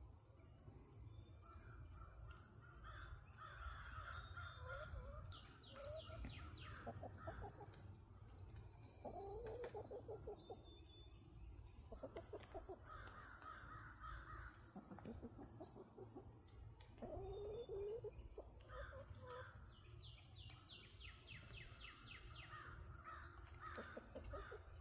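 Birds calling in repeated bouts of quick, pulsed notes every few seconds, some caw-like and some higher and trilled, over a steady low rumble.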